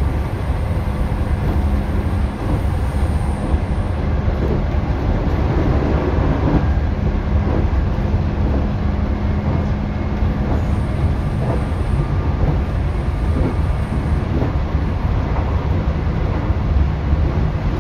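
JR 211 series electric multiple unit running along the line: a steady low rumble of wheels on rail with a continuous low hum and a few faint knocks.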